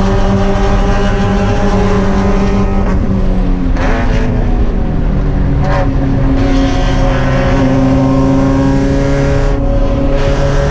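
Spec Miata's four-cylinder engine running under load at steady revs. About four seconds in, the pitch drops, with a couple of brief breaks, and then climbs slowly again.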